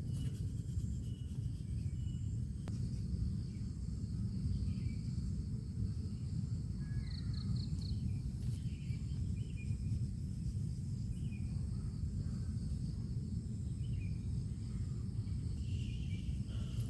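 Forest ambience: a steady low rush, with a few faint short high chirps about seven seconds in and again near the end.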